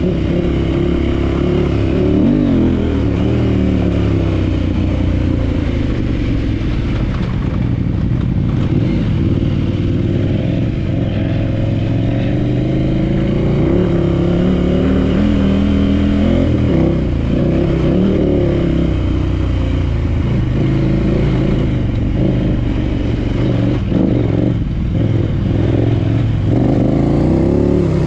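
Big adventure motorcycle's parallel-twin engine running on the move along a dirt trail, its revs rising and falling again and again with throttle and gear changes.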